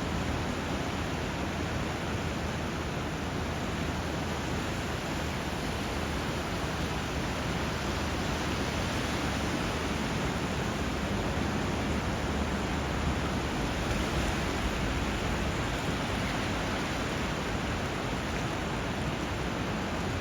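Steady rush of water where a river flows into the sea, river current and surf blended into one even hiss, swelling slightly a little past the middle.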